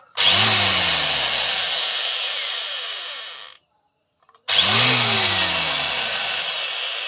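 Boss electric angle grinder switched on and running at speed for about three seconds, then cutting off. It is switched on again about a second later. This is a test run after its gear-side bearing was replaced.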